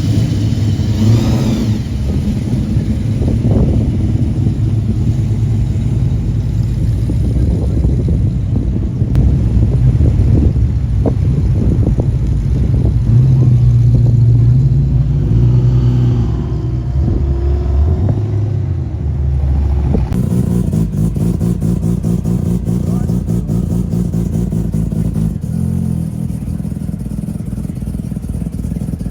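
Car engines running at idle and being revved, the sound changing abruptly about two-thirds of the way through.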